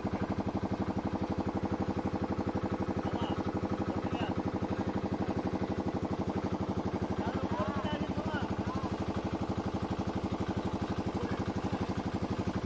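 A river boat's engine running steadily with an even, rapid chugging beat.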